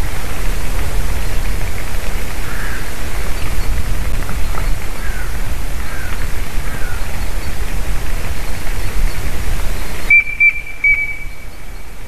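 Steady rushing noise like wind on the nest-camera microphone, with a few faint, short falling whistled bird notes in the first half. Near the end the rushing drops suddenly and a clear whistle holds for about a second and a half. The uploader takes these whistles for a strange bird voice, maybe a grey-headed woodpecker.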